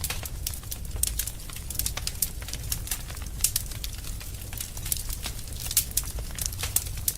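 Wood fire burning in a fireplace: many irregular crackles and pops, several a second, over a steady low rumble of the flames.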